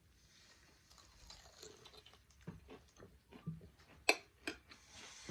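Eating sounds: soft crunching and chewing, with a few sharp clicks in the last second and a half, the loudest just after four seconds in.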